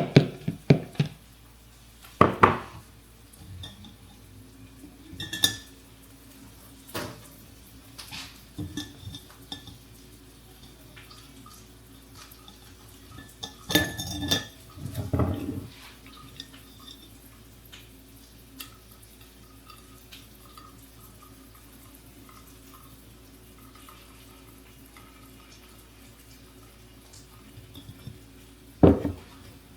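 Dishes and cutlery being handled: scattered clinks and knocks, a few of them ringing briefly, with a busier cluster about halfway through and one sharp knock near the end. A faint steady hum runs underneath.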